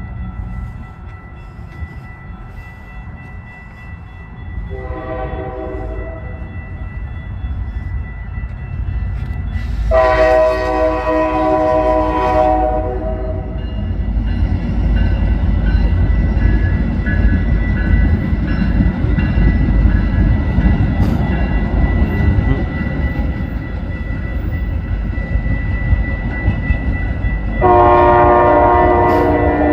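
Locomotive horn sounding three times, a short blast about five seconds in, a longer one around ten seconds, and another long blast near the end, over the low rumble of the train, which grows louder.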